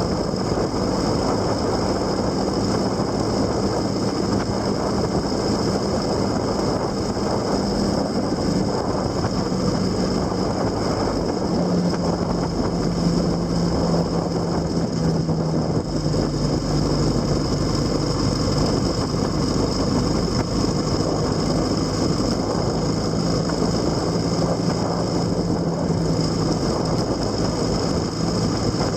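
Vehicle engine running steadily under way, heard on board over a constant rush of wind and road noise, its hum shifting pitch slightly a few times.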